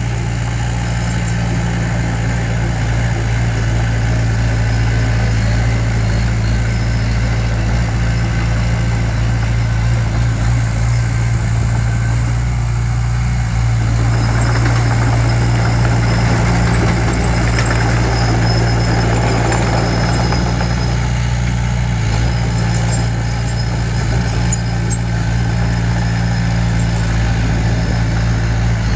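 Diesel engine of heavy construction equipment running steadily at a low, even pitch, with a little more mechanical noise for a few seconds in the middle.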